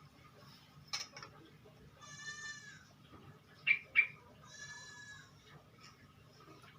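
Two faint animal calls, bleat-like, each just under a second long, with two short sharp clicks between them.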